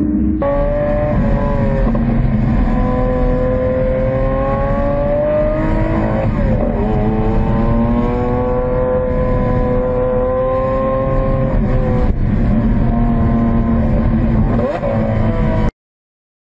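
Lamborghini supercar engine running hard, its note slowly rising in pitch. The pitch drops suddenly about six seconds in and again about twelve seconds in, then climbs again, and the sound cuts off abruptly near the end.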